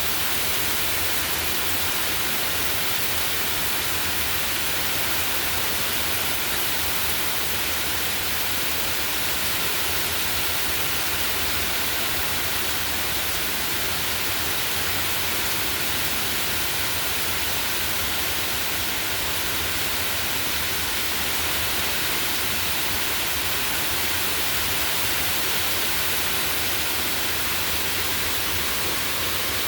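Heavy hurricane rain pouring steadily, an even unbroken hiss.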